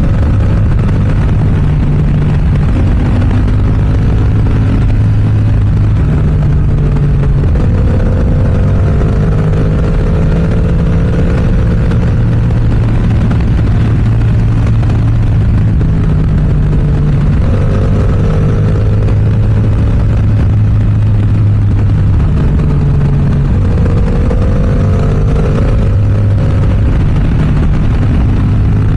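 Yamaha R7's 689 cc parallel-twin running through an aftermarket M4 exhaust while riding, its pitch rising under acceleration a few times and settling between, as it works through the gears.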